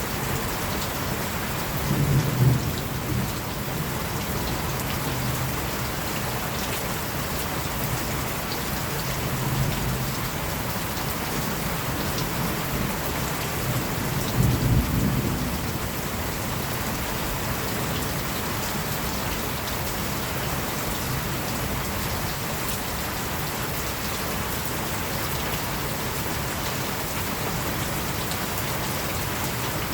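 Steady rain with low rolls of thunder: a stronger rumble about two seconds in, a fainter one near a third of the way, and another about halfway through.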